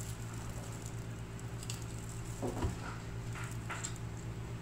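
Eating cheese-topped nacho tortilla chips: chewing, with a few crisp crunches about halfway through. A steady low hum runs underneath.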